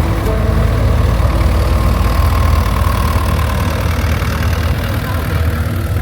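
Tractor engine idling steadily, a continuous low pulsing rumble.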